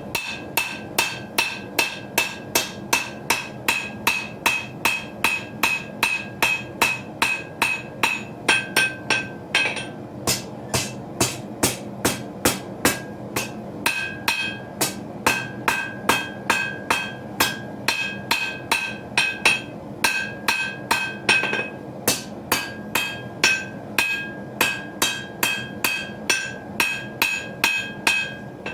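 Forging hammer striking steel on an anvil, a steady run of blows about two to three a second, each with a bright metallic ring. There are a few brief pauses in the rhythm as the knife blank is shaped.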